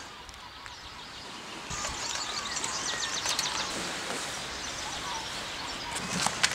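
Small birds chirping over a steady outdoor background hiss, with a few sharp clicks near the end.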